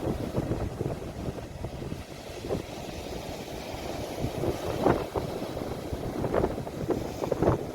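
Sea waves washing ashore, recorded on a phone, with wind buffeting the microphone: a steady low rush with a few short, louder gusts.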